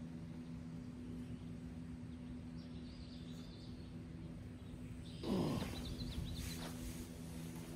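Small birds chirping in short high bursts over a steady low hum. A little after five seconds in, a louder sound sweeps quickly down in pitch.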